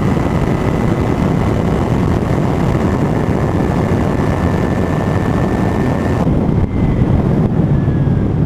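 Heavy wind buffeting the microphone over a Kawasaki Ninja 300's parallel-twin engine running at speed, a steady rush with a faint thin whine that drifts slightly lower near the end.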